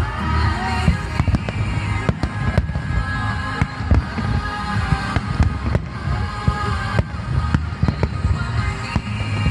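Fireworks display: many sharp bangs in quick irregular succession over a continuous deep rumble, with music playing underneath.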